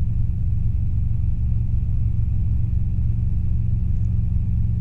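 Robinson R22 helicopter's piston engine and rotors running under power in flight, a steady low drone with a fast even pulsing, heard from inside the cockpit.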